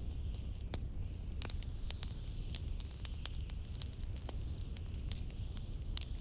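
Wood fire crackling with many irregular sharp pops and snaps, over a steady low rumble of blizzard wind.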